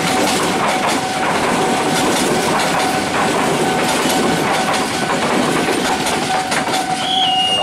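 Economy-class passenger train coaches rolling past on the rails, the wheels clicking over the rail joints in an irregular clatter. A steady high tone runs underneath.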